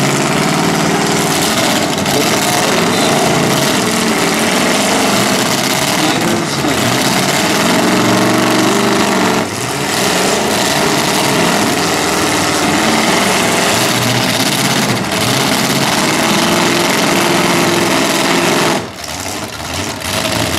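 Several demolition derby car engines with open exhaust pipes running up through the hoods, revving hard and unevenly under load as the wrecked cars push against each other. The revving briefly drops off about halfway through and again near the end.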